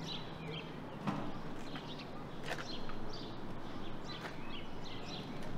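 Birds chirping and calling again and again over a steady outdoor background, with a single light knock about a second in.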